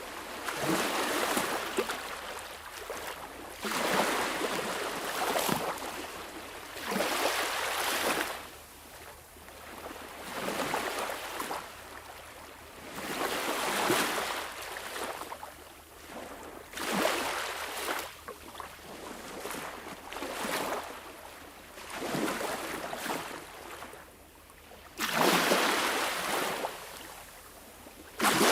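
Sea waves washing in, a rushing surge swelling and falling back every two to three seconds, with the largest surge near the end.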